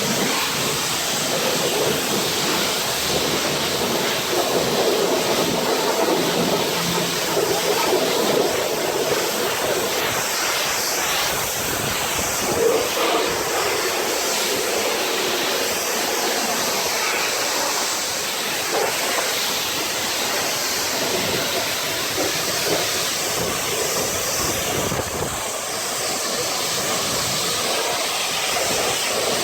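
Pressure washer dual foamer spraying soap foam onto a truck: a steady rushing hiss of spray.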